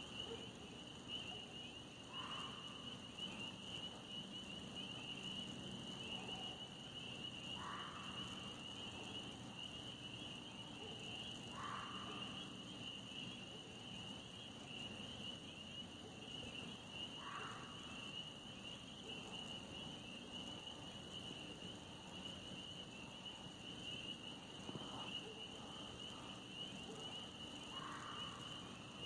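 Steady night insect chorus, a continuous high shrill drone. Short distant calls come through it every few seconds, about five times in all.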